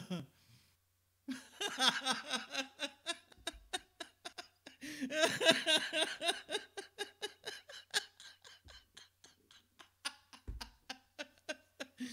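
People laughing, starting about a second in, loudest around the middle, then trailing off into short chuckles.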